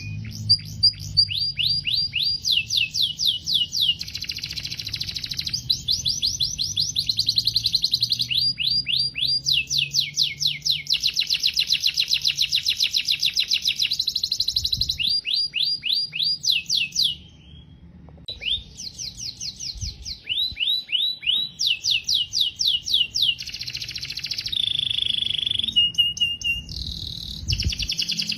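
Domestic canary singing a long, continuous song of rapid repeated trills, one phrase after another, with a brief pause about two-thirds of the way through and a few held whistled notes near the end.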